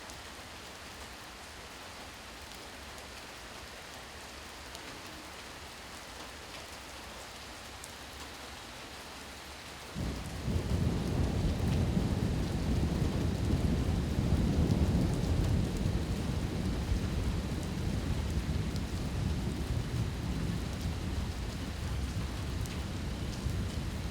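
Steady rain falling, then about ten seconds in a roll of thunder breaks in suddenly with a deep rumble that swells for a few seconds and slowly fades while the rain continues.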